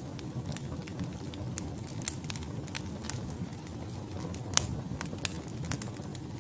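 Wood fire burning in a fireplace: a steady low rumble of flames with irregular sharp crackles and pops from the logs, one louder pop a little past the middle.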